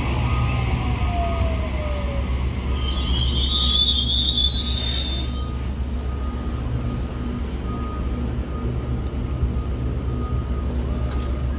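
A Sydney Trains double-deck electric train passing, with a steady low rumble of wheels on the rails. A whine falls in pitch over the first two seconds. About three seconds in, a high-pitched squeal lasts two to three seconds.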